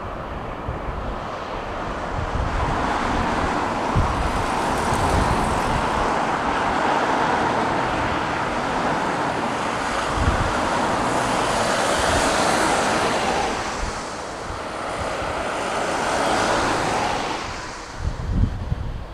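Jet engine noise of a widebody Boeing airliner passing: a steady roar that swells over several seconds, holds, and fades away near the end. Wind rumbles on the microphone throughout.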